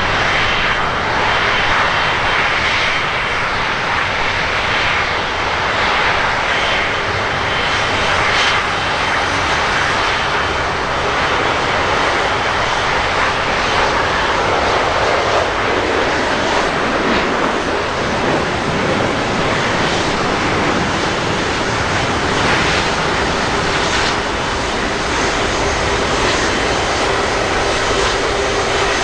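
Jet airliner engines running, a loud, steady noise that holds level without rising or falling.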